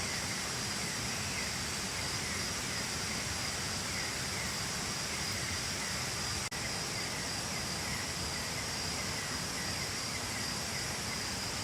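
Steady rush of a jungle waterfall, with insects chirring high above it. The sound drops out for an instant about six and a half seconds in.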